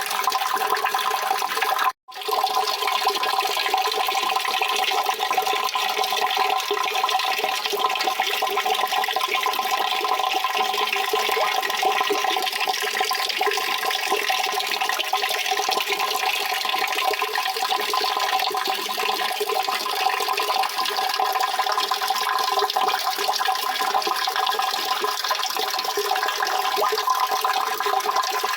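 Steady rushing water, one dense even wash of sound, cut by a brief dropout about two seconds in.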